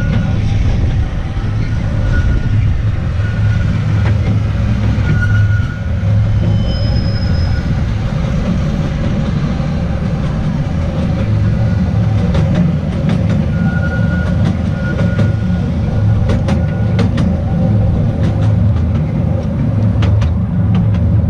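Small narrow-gauge train running along its track: a steady low rumble of wheels and carriages, with several short, high wheel squeals and scattered clicks of the wheels over rail joints, the clicks coming mostly in the second half.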